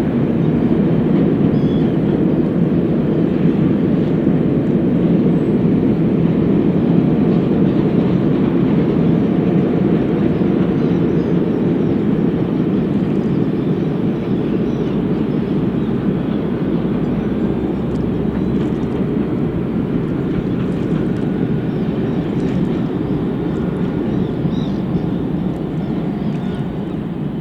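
Steady low rumble of a train crossing the steel Forth Bridge, slowly fading away.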